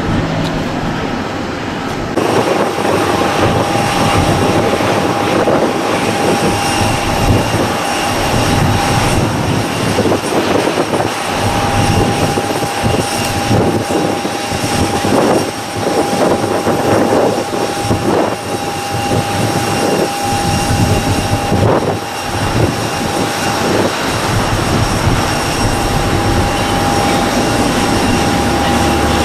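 Four CFM56-5C jet engines of an Airbus A340-300 running, a loud steady rush with a steady whine that comes in about two seconds in.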